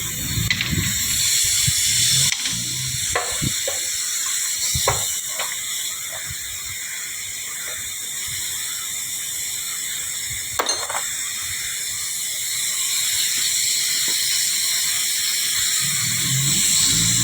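Workshop noise: a steady hiss with scattered light clicks and knocks, and a low rumble near the start and again near the end.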